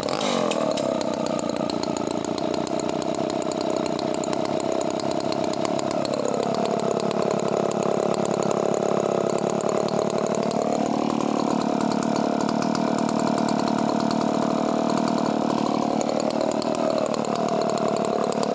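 Vintage Sachs-Dolmar 118 Super 45cc two-stroke chainsaw running freely without cutting, freshly started. Its engine holds a high steady speed, drops to a lower pitch about six seconds in for some four seconds, climbs back, and dips briefly again near the end.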